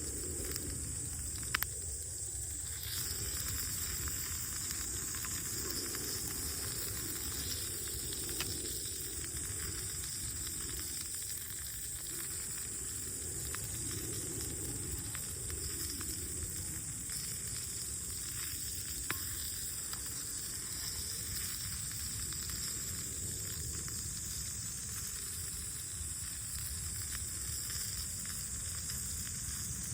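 Food sizzling steadily in a pan over a campfire, an even high hiss with a few single sharp crackles.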